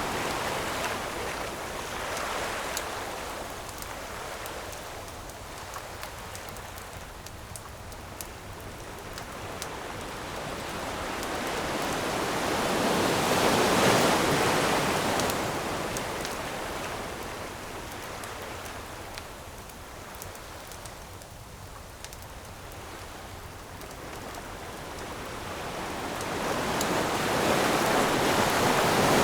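Ocean waves breaking on the shore, the wash swelling and fading twice, about fourteen seconds apart, with a campfire's wood crackling and popping through the lulls.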